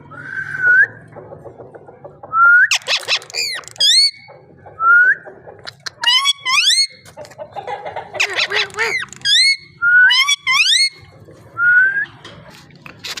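Ringneck parakeet whistling: short rising whistles repeated every two to three seconds, with runs of fast swooping whistles and harsh, raspy calls in between.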